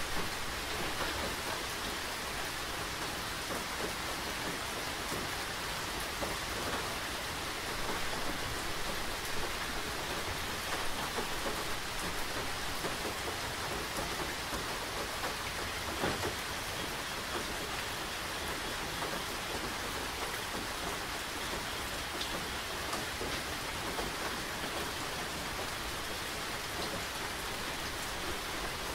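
Steady rain falling, with a few drops standing out now and then.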